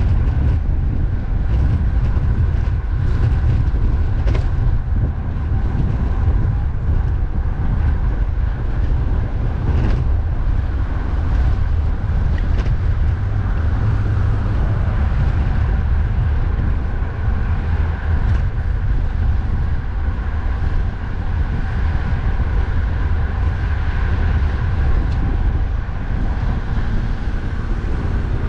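Steady low rumble of strong wind buffeting the microphone, mixed with continuous road traffic noise.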